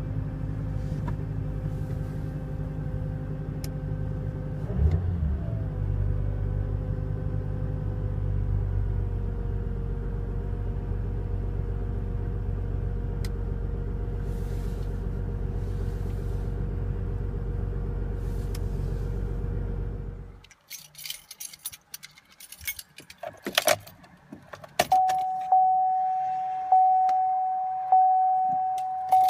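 Audi A6's engine idling steadily on a cold start, with a brief swell in engine note about five seconds in; the sound cuts off abruptly after about twenty seconds. Then a few clicks and key jangles, and a GM diesel pickup's dashboard warning chime sounding over and over, about every second and a half.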